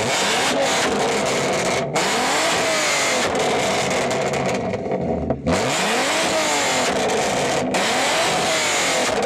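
Volkswagen Golf R32's 3.2-litre VR6 engine being revved while parked, its pitch climbing and falling back about three times, with a few momentary dropouts in the sound.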